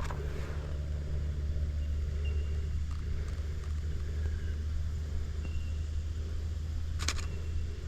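Steady low rumble, with a brief cluster of sharp clicks about seven seconds in.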